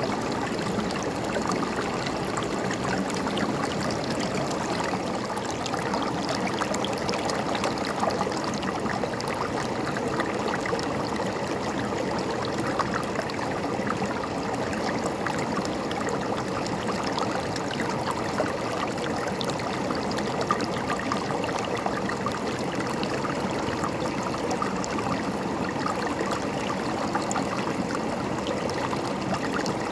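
A river stream flowing and gurgling over rocks, a steady rushing and trickling of water.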